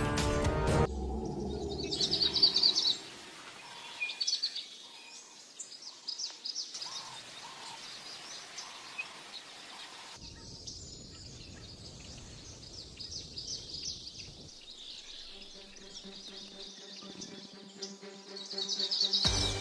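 Outdoor ambience of birds chirping in quick high trills. It changes abruptly several times as clips are cut together, and music stops about a second in.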